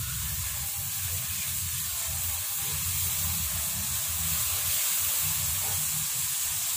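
Rice porridge frying in oil in a wok, sizzling steadily as it is stirred with a spatula and cooks down toward dry, with a low steady hum underneath.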